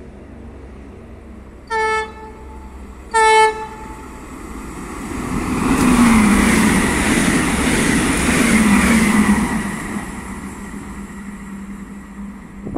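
Trenitalia ETR521 'Rock' electric multiple unit giving two short horn blasts about a second and a half apart, then running through the station at speed: the rush of the passing train swells to a peak and fades away.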